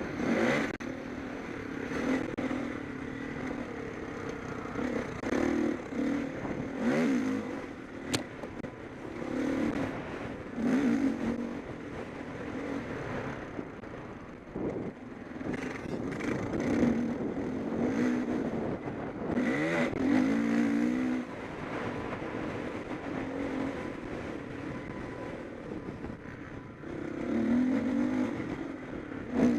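Motocross bikes racing, engines revving up and easing off in repeated bursts as riders accelerate and pass.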